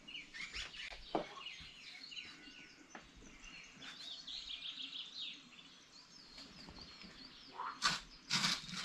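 Small songbirds chirping, many short falling chirps overlapping, with a few brief knocks near the end.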